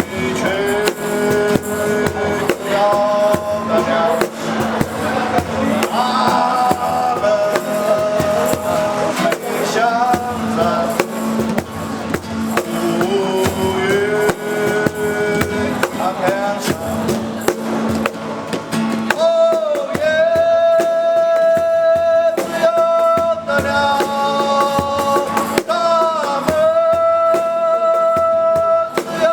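A song played by a small band: a male voice singing a held, bending melody over guitar and a drum kit, with the drums striking more sharply in the last third.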